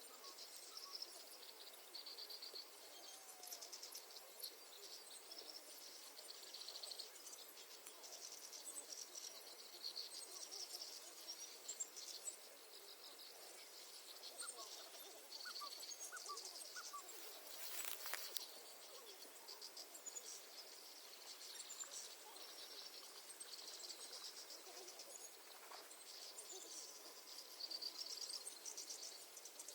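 Crickets chirping in a faint, continuous chorus of rapid high trills, with a few faint bird chirps and a single sharp click about two-thirds of the way through.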